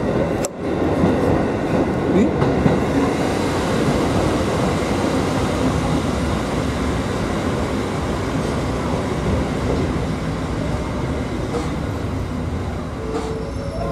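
Kotoden 1100-series electric train running along the track, heard from inside the leading car: steady wheel-on-rail rumble with rail-joint clatter, easing off slightly as it slows into a station.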